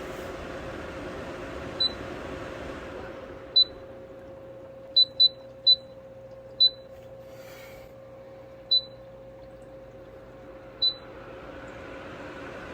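COMFYHOME evaporative cooler beeping as its buttons are pressed to change settings: eight short, high electronic beeps at uneven spacing, two of them in quick succession. They sound over the steady hum of the cooler's fan, which gets quieter a few seconds in.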